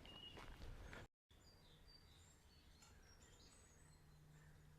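Faint birds chirping and whistling, with a brief dead-silent dropout about a second in and a faint low hum joining near the end.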